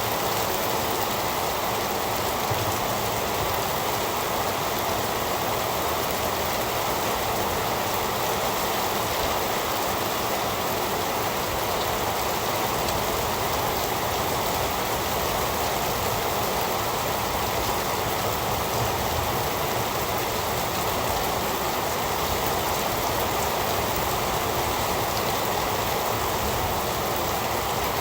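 Heavy rain falling steadily, an even unbroken wash of noise with no thunder.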